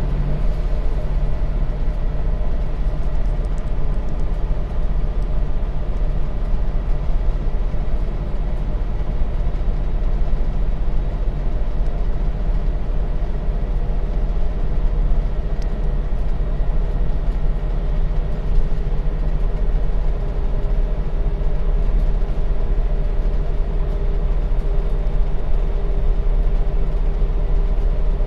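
A Scania bus in motion, heard from inside: a steady, loud drone of engine and road rumble.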